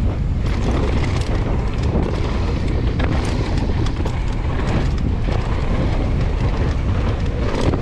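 Wind buffeting the microphone of a downhill mountain bike at speed, with the tyres rolling over a dirt trail. Many short rattles and knocks come from the bike over the bumps.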